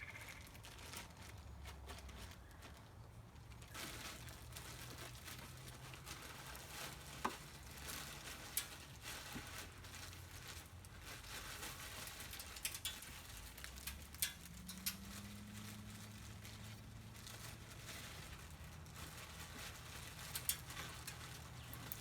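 Birdseed being poured from a bag into a bird feeder: faint crinkling of the bag with light pattering and scattered small clicks of seed.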